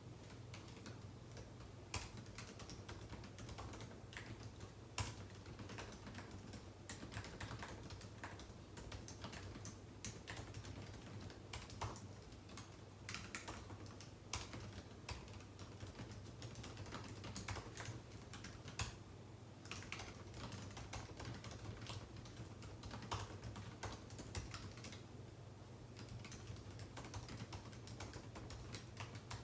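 Typing on a computer keyboard: irregular runs of key clicks broken by short pauses, over a low steady hum.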